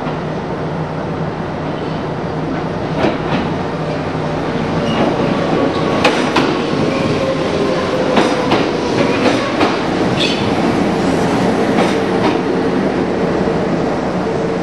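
Kintetsu electric train running into the station along the platform: a steady rumble that grows louder as it comes past, with a series of wheel clacks over rail joints. A motor whine drops a little in pitch as it slows.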